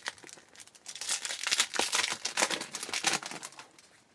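Trading cards and their pack wrapper being handled, a dense run of crinkling and quick clicks that is busiest in the middle and dies away near the end.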